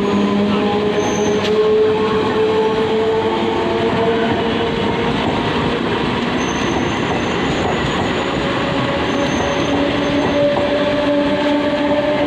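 MEMU electric multiple-unit train running on the track: a steady, loud rumble and rattle of wheels on rails, with faint whining tones that slowly shift in pitch.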